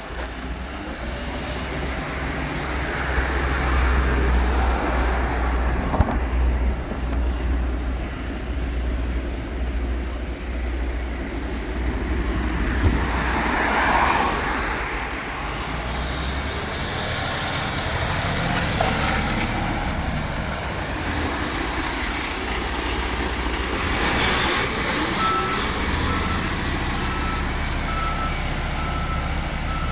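Refuse truck engine running with a steady deep rumble that swells louder now and then. An evenly repeating beep starts near the end.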